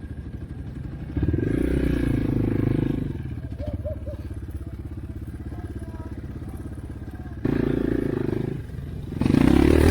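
Off-road motorbike or quad engine idling with a steady pulse, revved up briefly about a second in and again near the end.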